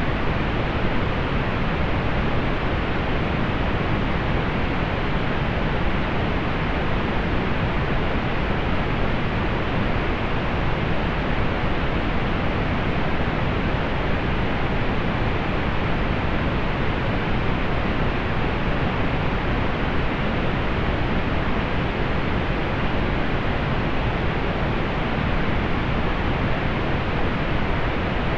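Steady pink noise: an even, unchanging hiss weighted toward the low end, rolled off in the highs.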